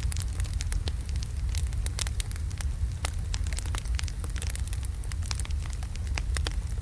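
Wood fire of large logs burning, with many sharp irregular crackles and pops over a steady low rumble of the flames.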